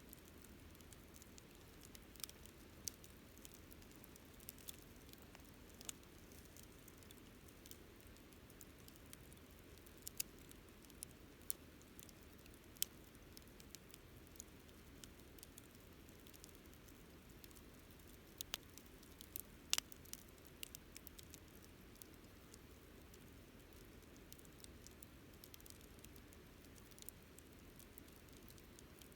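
Wood fire crackling: scattered sharp snaps and pops at irregular intervals over a faint, steady low hiss, with one louder pop about two-thirds of the way through.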